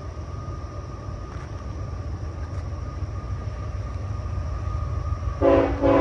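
Train horn sounding two short blasts near the end, over the steady low rumble of an approaching train that grows gradually louder.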